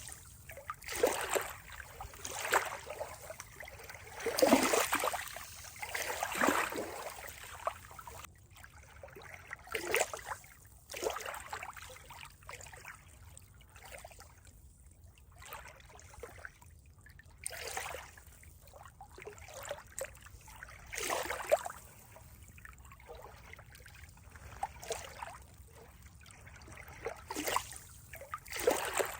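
Water moving in uneven splashing surges every second or two, with calmer stretches between; the surges are strongest about four to seven seconds in.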